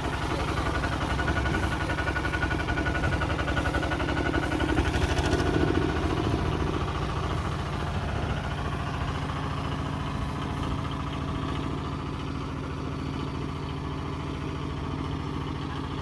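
A tractor engine running steadily, a little louder about five seconds in, then easing slightly.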